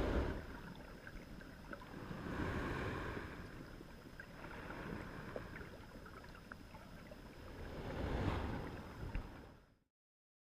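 Dishwasher spray water splashing and sloshing, heard from inside the dishwasher, swelling and fading twice with small scattered clicks, then cutting off suddenly near the end.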